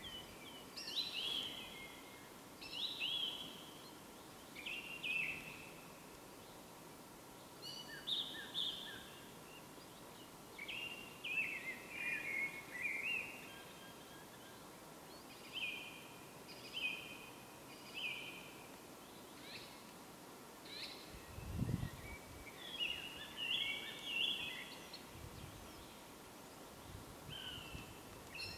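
A songbird singing short, chirping phrases every second or two over a faint steady hiss, with one brief low rumble about three-quarters of the way through.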